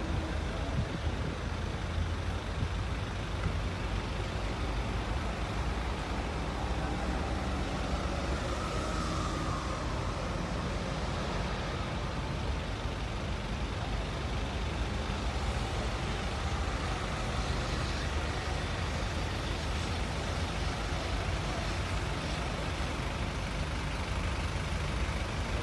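Steady rain noise mixed with road traffic: an even hiss over a constant low rumble.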